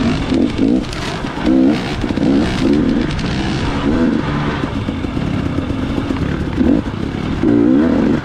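Dirt bike engine revving up and falling back in short bursts as the throttle is worked on and off along the trail, over a steady rush of noise.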